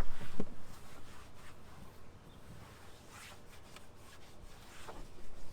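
Interior cleaning wipe rubbing over a truck's dashboard surfaces in a few short strokes, louder near the start.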